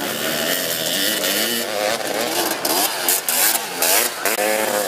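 Several racing three-wheeler ATC engines revving at once, their pitches rising and falling as the riders work the throttle. A few short, loud bursts of noise come about halfway through.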